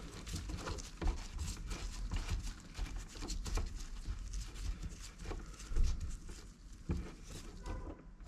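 Irregular light clicks and knocks of car door and window-mechanism parts being handled, several a second, with a louder knock a little before the six-second mark.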